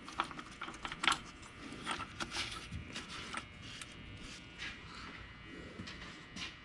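Scattered light clicks and knocks of metal parts being handled: differential gears being turned by hand to line up the cross-shaft pin.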